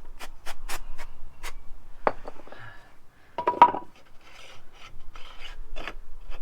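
Scrubbing strokes, about four a second, on the grimy rear sprocket and cush drive of a Suzuki SV650 motorcycle. A knock comes about two seconds in, then a loud, ringing metallic clank near the middle, followed by more scattered scrubbing.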